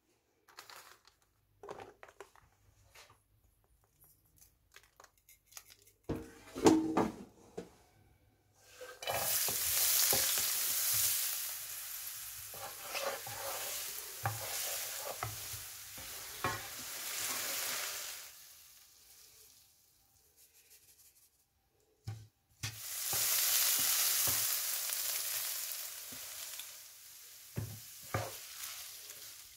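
Chopped onion and green pepper sizzling in hot oil in a frying pan while being stirred with a wooden spatula. The sizzle starts loud and dies down over about ten seconds, and a second burst of sizzling follows a few seconds later. Before that come a few light knocks and taps.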